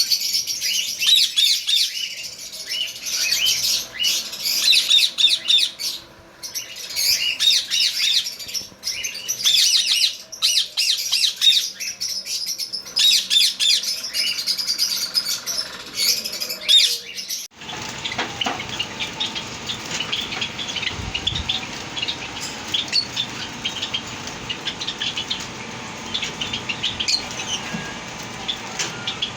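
Budgerigars chattering, a dense run of rapid chirps and warbles. A little over halfway through the sound cuts abruptly to a steady hiss with fainter, sparser budgie chirps over it.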